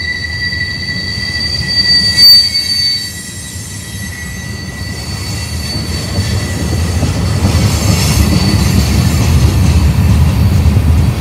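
Freight train wheels squealing against the rails: two steady high-pitched squeal tones, with a brief loud peak about two seconds in, that die away around three seconds in. After that the low rumble of the cars rolling past grows steadily louder.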